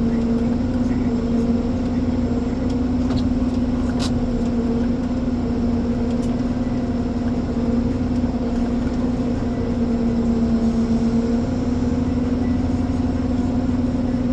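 Ponsse Elephant forwarder's diesel engine running steadily at a constant speed, a low rumble with a steady hum. There are a couple of faint clicks a few seconds in.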